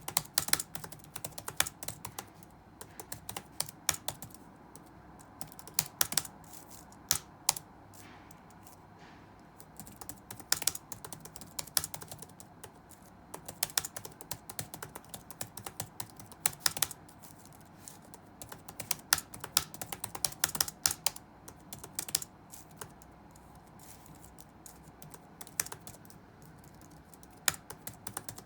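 Typing on a computer keyboard: keys click in quick runs, broken by pauses of a second or two, over a faint steady background hum.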